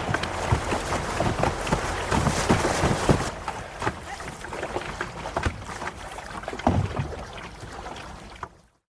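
Wind on the microphone and water noise from a canoe on the river, with many sharp knocks and splashes throughout; the noise drops about three seconds in and cuts off suddenly just before the end.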